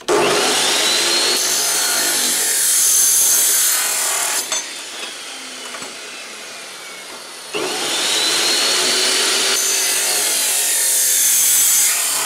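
Electric angle grinder spinning up and cutting into thin steel, twice: two runs of a few seconds each, with a short easing-off between them.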